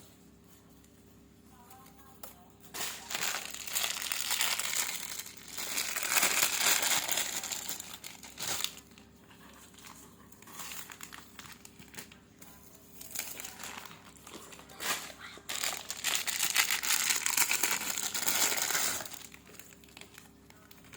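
Product packaging crinkling as it is handled and opened, in two long spells, the first a few seconds in and the second in the latter half.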